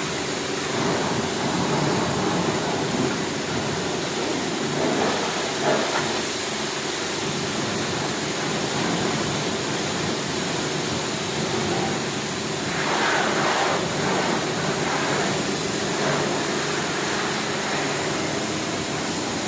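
Pressure washer running steadily, its pump motor humming under the hiss of the high-pressure water jet, which swells briefly about thirteen seconds in.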